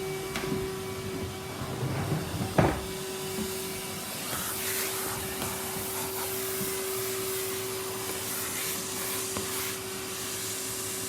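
Henry vacuum cleaner running with a steady hum, its nozzle drawing air and dust with a rising hiss from a few seconds in. One sharp knock about two and a half seconds in, the loudest sound.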